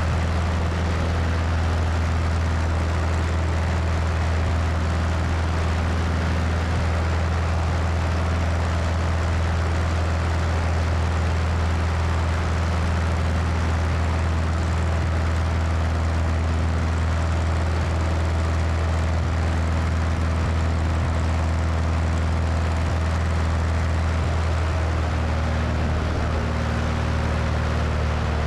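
Cessna 172's piston engine and propeller droning steadily in flight, with wind rushing over the wing-mounted microphone.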